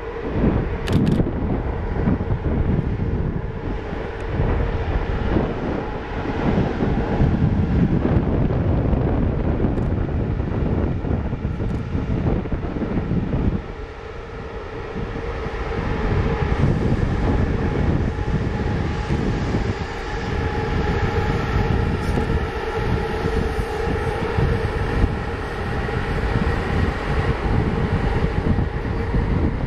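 Electric locomotive hauling a long rake of passenger coaches slowly past, running under a 10–15 km/h track speed restriction. A steady electric hum sits over the low rumble of the wheels on the rails.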